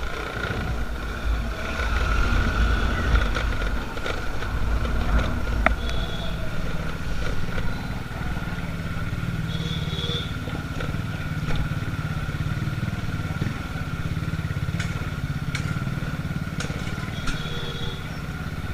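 Motorcycle engine running on the road: a heavy low rumble for the first several seconds, then a steady engine note. Three short high beeps sound about six, ten and seventeen seconds in.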